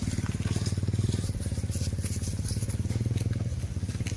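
A small engine running steadily with a fast, even low chugging.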